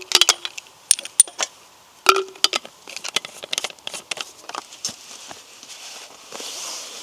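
Metal camp cookware being handled: a few sharp clinks, some ringing briefly, then quicker small crackly clicks and a soft rustle near the end.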